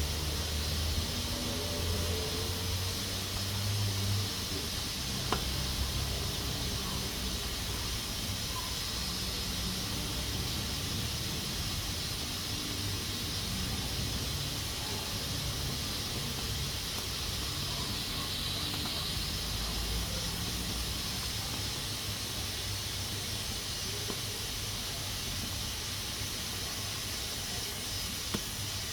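Pressure cooker hissing steadily as steam escapes from its pressure valve, with a low rumble underneath.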